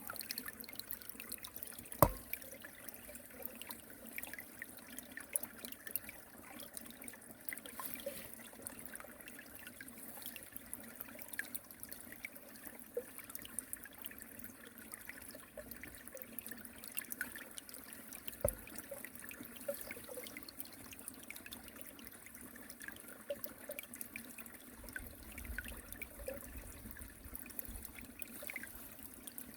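Stream water trickling steadily over a small weir, with a sharp knock about two seconds in and another about eighteen seconds in.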